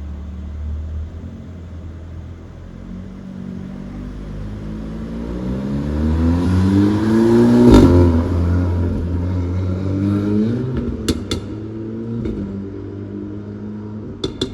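VW Golf GTI Clubsport's turbocharged four-cylinder revved with the car standing: engine speed climbs to a loud peak about eight seconds in and falls away, then a second shorter blip. Sharp pops and crackles from the exhaust follow on the overrun near the end, the 'bubbling' of its exhaust.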